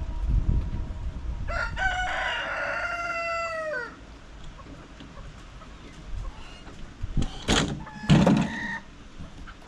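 A rooster crows once, a single long call that drops in pitch at the end. A few short, sharp sounds follow near the end.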